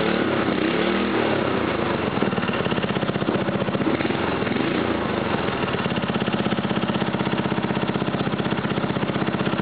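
Briggs & Stratton 5 hp single-cylinder four-stroke engine running just after starting: its speed rises and falls for the first few seconds, then it settles into a steady, even run.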